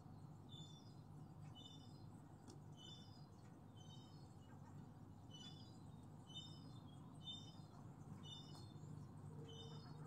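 Faint bird calling over and over, a short run of high notes falling in pitch about once a second, over a low steady hum.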